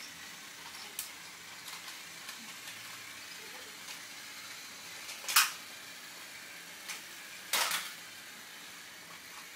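Faint steady hiss of room tone with a few brief rustling or handling noises, the loudest about five seconds in and another longer one near eight seconds.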